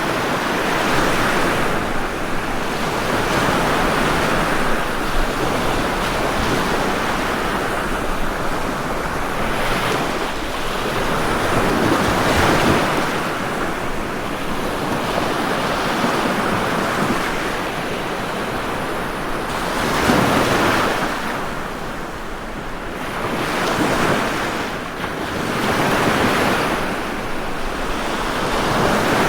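Ocean waves breaking and washing on a shore in a steady surf, one surge after another every few seconds, with stronger swells about twelve and twenty seconds in.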